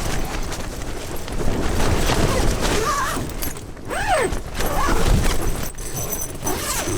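Strong mountain wind buffeting the microphone and tent, with several short wailing tones about halfway through that rise and fall in pitch. This is the strange, recurring night-time sound that the camper keeps noticing over the wind.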